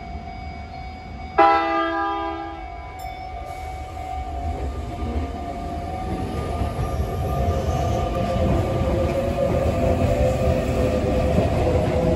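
Sotetsu electric train sounding a short, loud horn blast, a courtesy toot to the child cheering the crew. The train then pulls away with a rising electric motor hum and wheel rumble that grows steadily louder as it gathers speed.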